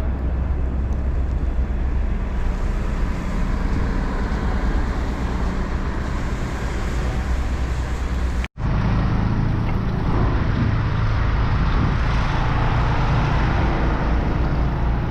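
Steady city street traffic noise with a heavy low rumble. It cuts out for an instant about eight and a half seconds in, then carries on.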